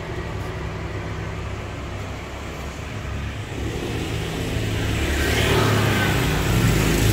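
Road traffic: a motor vehicle's engine running with a low hum that grows louder over the last few seconds.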